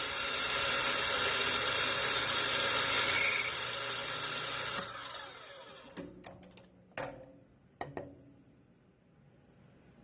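A woodworking power tool runs with a steady whir, then is switched off about five seconds in and winds down. A few sharp knocks and clicks follow, the loudest about seven seconds in.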